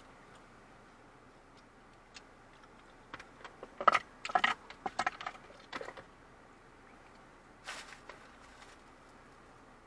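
A flurry of small clicks and rattles, lasting about three seconds from roughly three seconds in, then a short rustle near the end.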